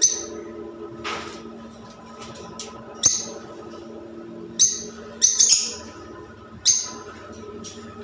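Caged birds giving short, sharp, high chirps, about seven in all, with several close together a little past the middle, over a steady low hum.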